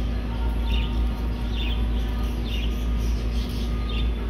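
A small bird chirping over and over, about once a second, above a steady low rumble.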